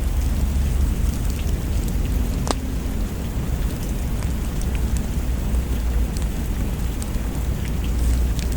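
Steady heavy rain with a deep low rumble underneath and scattered sharp ticks and pops, one more distinct about two and a half seconds in.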